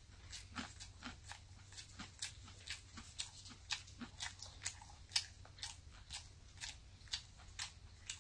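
A person chewing food close to the microphone: crisp, crunching bites at a steady two to three a second.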